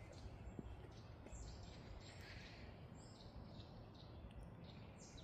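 Faint birds chirping, short high calls coming every second or so over a low rumble of background noise.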